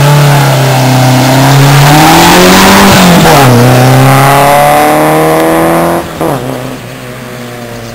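Hill-climb car launching hard from the start and accelerating away, its engine rising in pitch, shifting up once about three seconds in, then rising again. The sound drops off sharply about six seconds in as the car pulls away up the course.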